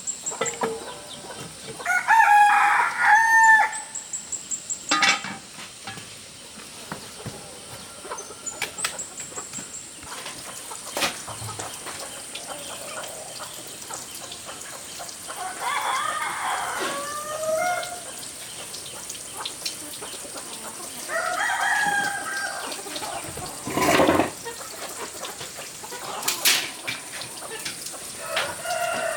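Rooster crowing three times, each a long pitched call of about a second and a half, with chickens clucking in between. A few sharp knocks, the loudest about three-quarters of the way through.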